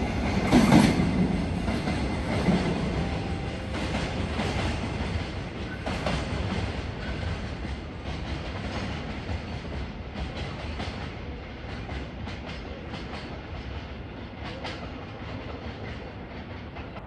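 Train wheels clacking over rail joints as a train runs past and away, the sound fading steadily over the whole stretch.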